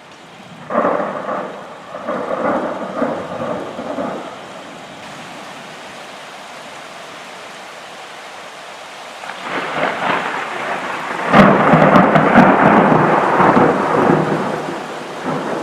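Two peals of thunder in a thunderstorm, over a steady hiss of rain. The first rolls for about three seconds. The second builds from about nine seconds in to a sharp crack about eleven seconds in, then rumbles on for several seconds.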